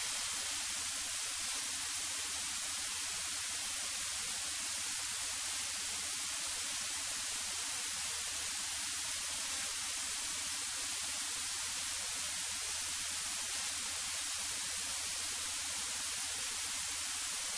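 Steady hiss of an aircraft intercom audio feed with a faint low hum underneath, and no engine or voices coming through.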